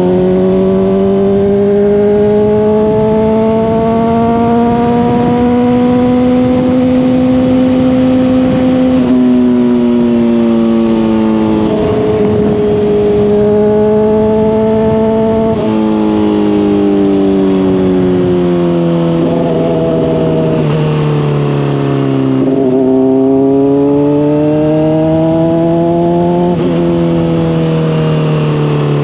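Honda CBR600RR's inline-four engine through a Hotbodies Stinger slip-on exhaust, ridden under load. The engine note climbs slowly for about nine seconds, then drops and climbs again several times through the rest, as the throttle and gears change, over steady wind rush.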